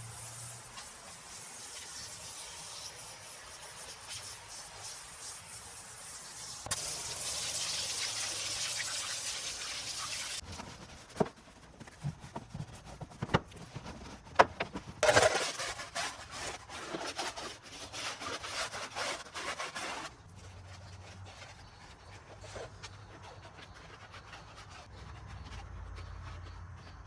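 Wet wheel and tire cleaning: stretches of hissing spray and water, with a run of sharp clicks and knocks about halfway through, then a quieter stretch with a low hum.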